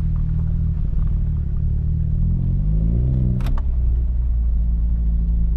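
Honda Civic Type R's K20 four-cylinder engine with a new Injen stainless exhaust, heard from inside the cabin while driving: a steady low drone whose pitch climbs briefly about two to three seconds in. A single sharp click sounds about three and a half seconds in.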